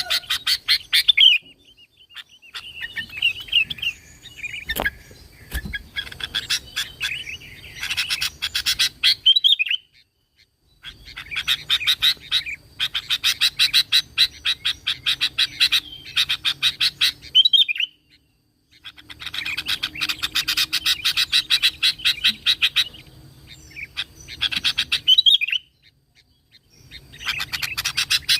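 Sooty-headed bulbul (kutilang) calling in long bouts of rapid, quickly repeated chirps, each bout several seconds long with short pauses between. This is the bird's busy, full song, used to lure other bulbuls into singing.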